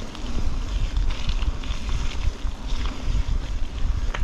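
Wind buffeting an action camera's microphone: a loud, uneven low rumble with a fainter hiss and scattered small ticks above it.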